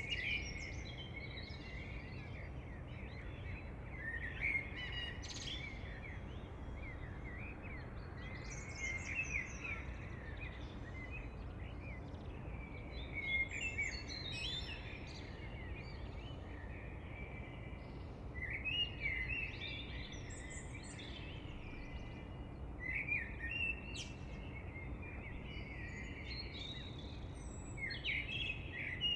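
Wild songbirds chirping and singing in short phrases every few seconds, over a steady low background rush.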